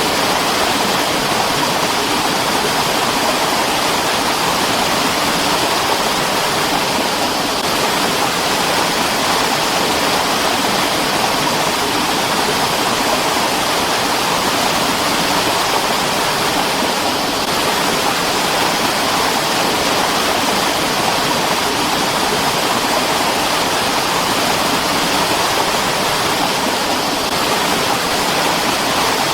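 Mountain stream rushing and splashing over rocks in a steady, unbroken wash of water noise.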